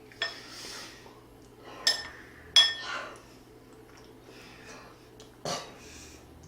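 Tableware clinking during a meal: four sharp clinks of utensils against dishes, the third and loudest ringing briefly.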